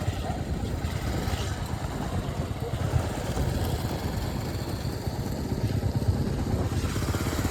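Royal Enfield Hunter 350's single-cylinder engine running steadily while riding.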